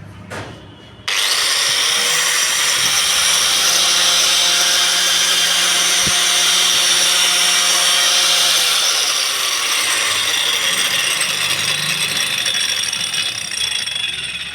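DCA angle grinder fitted with two blades, switched on about a second in and running steadily at speed with a high whine, easing off slightly near the end.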